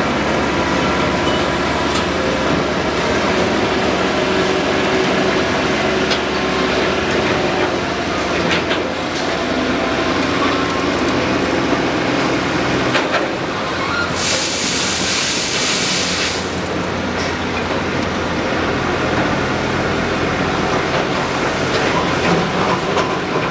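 Excavator's diesel engine running steadily, with a few knocks, and a hiss lasting about two seconds about halfway through.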